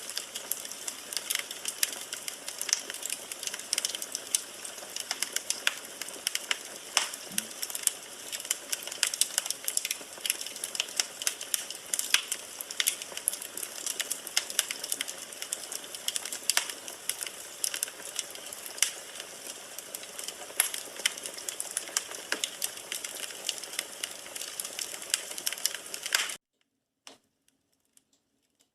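Wood fire burning in a fireplace, crackling steadily with frequent sharp pops and snaps. About 26 seconds in it cuts off suddenly, leaving near silence with a few faint ticks.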